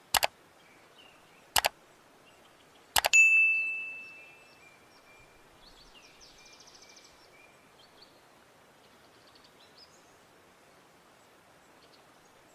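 Metal cookware being struck: sharp double knocks at the start and about a second and a half in, then a cluster of knocks about three seconds in whose last stroke rings in a high clang that fades over about a second and a half. Faint birdsong after.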